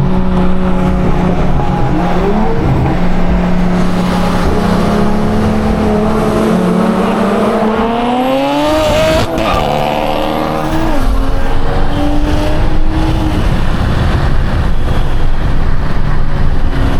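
Turbocharged BMW inline-six running at a steady cruise, then pulled hard at full throttle in a roll race, its pitch rising for several seconds. The pitch drops at gear changes about nine and eleven seconds in, and about thirteen seconds in the engine tone gives way to a steady road and wind roar.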